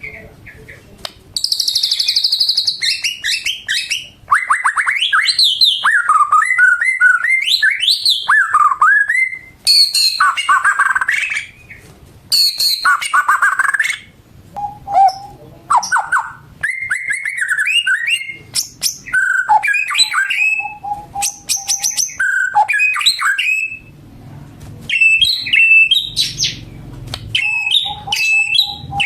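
White-rumped shama (murai batu) in full song: a long, varied run of loud clear whistles, fast trills and rapid chattering notes, phrase after phrase with short pauses between them, some phrases sliding up and down in pitch. A faint low rumble sits under the song in the last few seconds.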